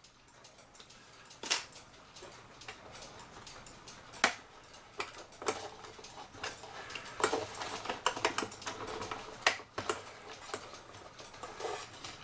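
Irregular sharp clicks and taps with light clatter, from small clock parts and hand tools being handled on a workbench during work on a cuckoo clock's hands and movement.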